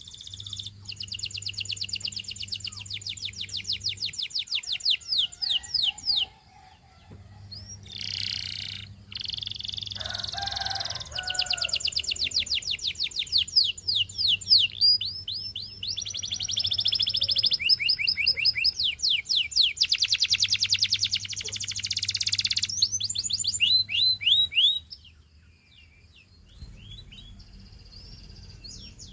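Domestic canary singing: long phrases of rapid trills and fast repeated high notes. The song breaks off briefly about six seconds in and again near the end.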